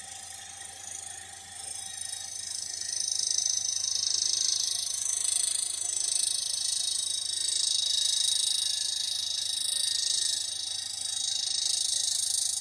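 A machine cutter chattering as it cuts a beam-engine bedplate casting, hitting extremely hard spots in the metal. The sound is a steady, high-pitched chatter that swells and fades.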